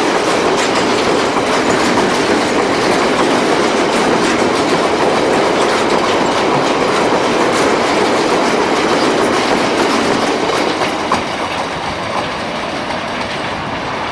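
A train's wagons rolling past with wheels clicking over the rail joints, a steady loud rumble that eases slightly near the end before cutting off.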